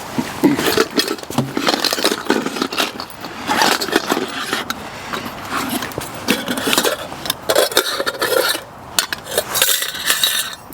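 Irregular metal clinking and clattering with wooden knocks, as a kettle is hung and adjusted on a wooden pot hanger over a campfire.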